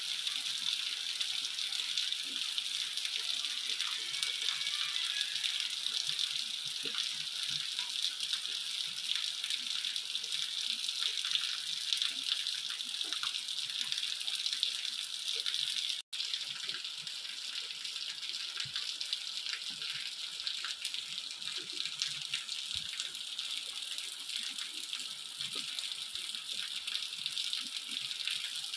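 Heavy rain falling steadily, a dense hiss of drops with small patters throughout; the sound cuts out for an instant about halfway through.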